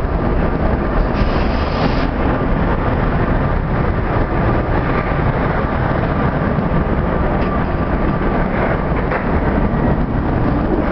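Renfe class 269 electric locomotive pulling a passenger train out of the station, a steady rumble of motors and wheels on rail with a thin steady whine, as the locomotive and then its coaches roll past.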